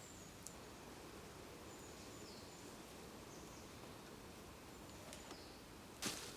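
Quiet woodland ambience with a few faint, short, high chirps from distant birds, falling in pitch. A sudden rustling crunch near the end, like a step in dry leaves.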